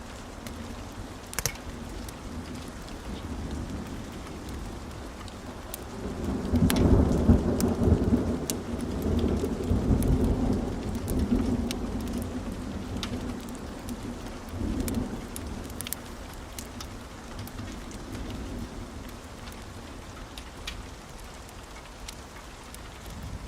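Fireplace fire crackling, with scattered sharp pops over a steady hiss. About six seconds in, a deep low rumble swells up and lasts several seconds, with a shorter one a few seconds later.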